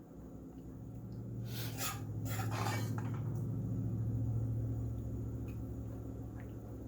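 A spoon scraping and stirring in a pot of thick curry gravy, a few scrapes in the first half, over a steady low hum that swells and fades.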